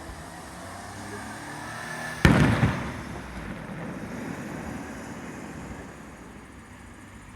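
A single firework shell bursting in a loud boom about two seconds in, followed by a low rumble that slowly dies away.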